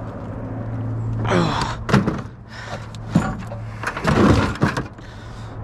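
A few knocks and thuds as objects are handled and set down, several of them over a couple of seconds, over a steady low hum.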